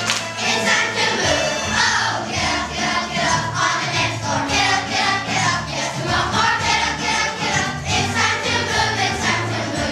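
Music: a group of voices singing over accompaniment with a regular beat.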